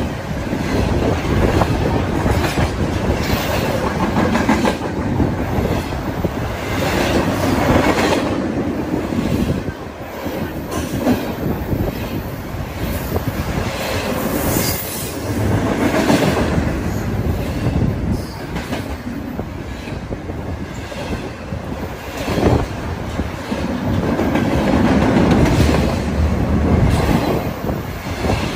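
Double-stack container freight train passing close by: the steady rolling noise of steel wheels on rail swells and eases as the cars go by, with occasional sharp clanks.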